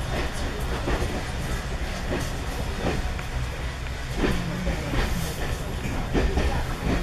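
Passenger train running, heard from inside the carriage: a steady low rumble with wheels clicking over rail joints about once a second.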